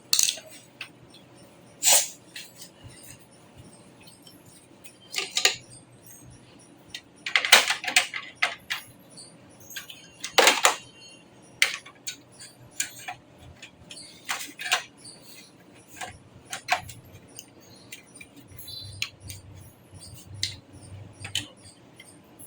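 Scattered clicks, taps and clinks of small hard parts and tools being handled during desktop PC assembly, irregular and unhurried, with a few louder clatters about two seconds in and around the middle.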